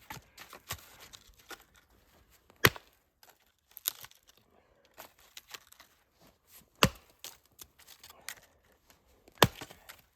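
Axe chopping wood: three sharp chops about four seconds apart, the last the loudest, with smaller knocks and cracks of splitting wood in between.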